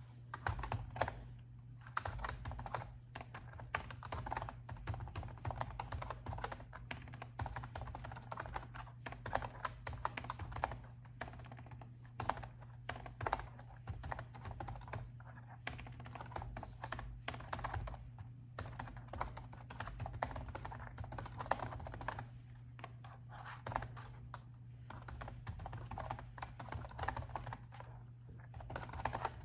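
Typing on a laptop keyboard: quick, uneven key clicks with a few brief pauses, over a steady low hum.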